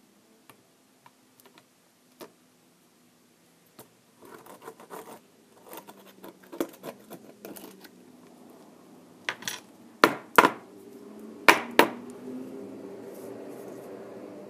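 Small tools and parts handled on a workbench during an electronics repair: scattered light clicks and scraping, then two pairs of sharp clinks near the end.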